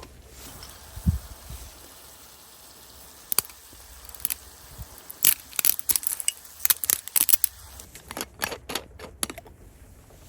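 Sharp clicks and crinkling rustles of things being handled, packed closely from about five to nine seconds in, with a single dull thump about a second in.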